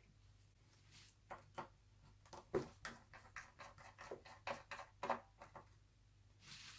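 Light, irregular clicks and taps of laptop parts and small tools being handled during disassembly, loudest and most frequent in the middle of the stretch.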